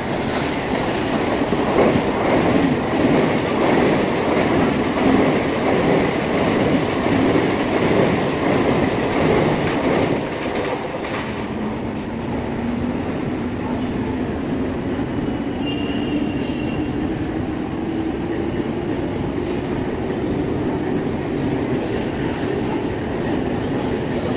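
Mumbai suburban EMU local train passing close by at speed: a loud, dense rumble and clatter of wheels for the first ten seconds or so. It then eases to a steadier running noise, with a whine that rises slowly in pitch through the second half.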